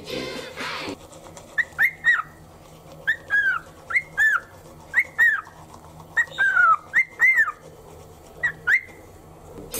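Cockatiel whistling a song: a string of short, clear notes, each rising and then falling in pitch, many coming in pairs with short gaps between them.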